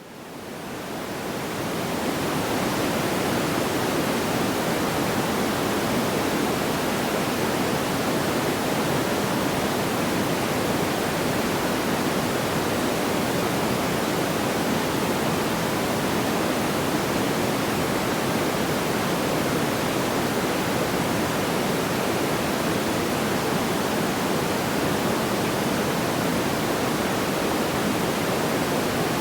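Steady, even rushing noise from a campfire sound track, with no single crackles standing out. It fades in over about the first two seconds, then holds level.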